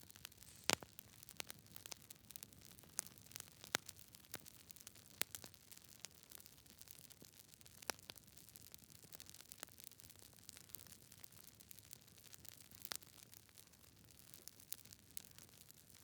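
Wood fire crackling: irregular sharp pops and snaps over a faint low hiss, the loudest pop about a second in and others around four, five, eight and thirteen seconds.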